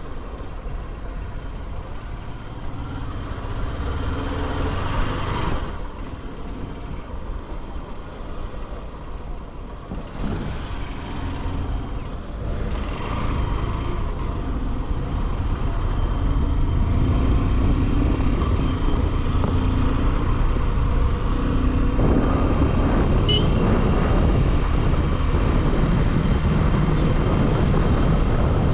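Bajaj Pulsar motorcycle riding on the road, its single-cylinder engine running under wind noise, with the engine note shifting as it changes speed and the sound growing louder about halfway through as the bike speeds up.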